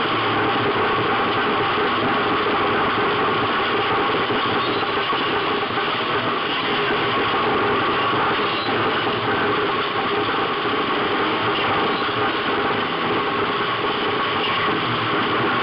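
Race car engine running steadily as the car drives, heard from inside the cockpit along with road and wind noise.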